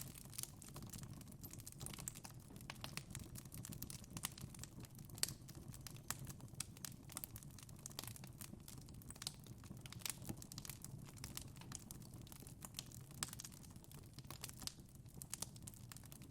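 Wood fire burning in a fireplace: irregular sharp crackles and pops of the burning logs over a steady low rumble of the flames, with a louder pop about five seconds in.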